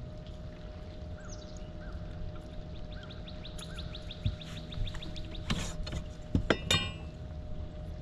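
Birds chirping outdoors over a steady hum, with a quick run of fast ticks near the middle and two short, sharp calls later on.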